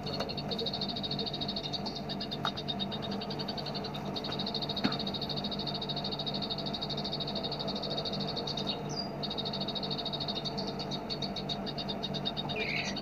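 Bar-winged prinia (ciblek) giving its continuous machine-gun 'ngebren' song: a fast, dry, high-pitched rattling trill that breaks off briefly twice, with a short downward note near the end. A steady low hum runs underneath.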